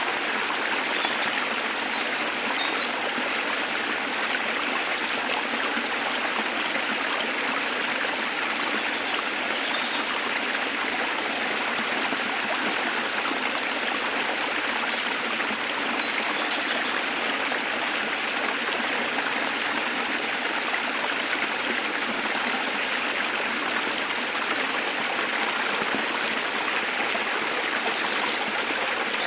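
Waterfall water rushing steadily. A few faint, brief high bird chirps come through now and then.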